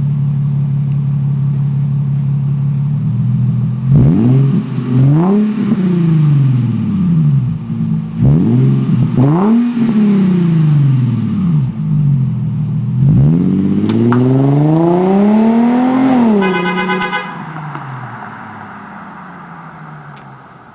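Infiniti G35's 3.5-litre V6 exhaust idling steadily, then revved three times, the pitch rising and falling with each rev, the last one longest. Right after the last rev a car alarm gives a short, rapidly pulsing chirp, and the engine sound then fades away.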